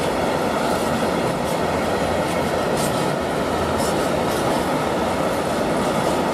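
Freight train of tank wagons rolling past, a steady rumble of wheels on the rails. A few brief high-pitched squeaks come from the wheels around the middle.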